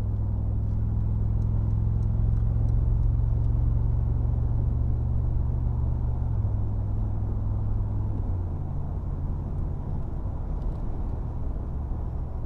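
Mercedes-AMG G63's V8 engine and tyre noise heard inside the cabin while cruising: a steady low drone. It changes pitch twice in the second half.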